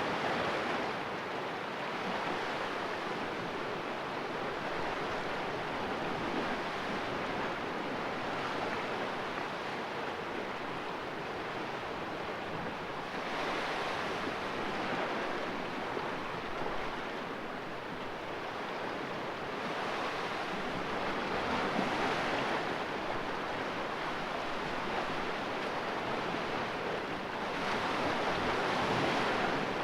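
Sea waves splashing into a rocky cove: a steady wash of surf that swells louder as each wave comes in, several seconds apart.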